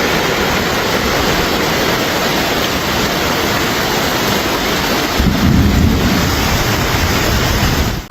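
Heavy rain falling, a steady hiss, with wind buffeting the microphone from about five seconds in.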